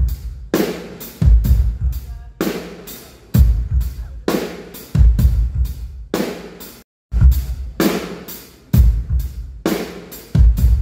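Drum kit played through the PA during a band sound check: a slow, steady beat of bass drum alternating with snare and cymbal, about one hit a second. The sound cuts out briefly about seven seconds in.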